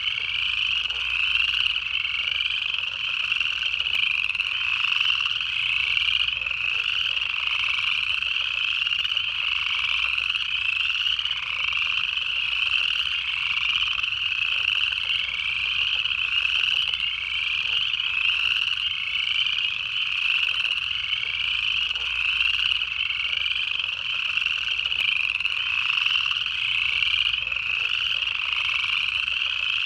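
Dense chorus of upland chorus frogs, their ascending trills overlapping and repeating about once a second, with a faint low chuckling underneath that fits southern leopard frogs.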